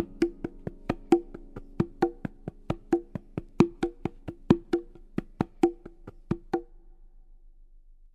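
Background music: a short percussive click, about four a second, over a soft low held tone, stopping about six and a half seconds in and fading out.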